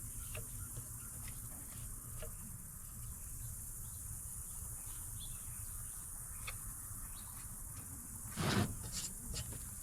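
Hand tools and metal parts being handled while working on a tractor: scattered faint clicks, and a short scrape about eight and a half seconds in followed by a few clicks, over a steady low hum.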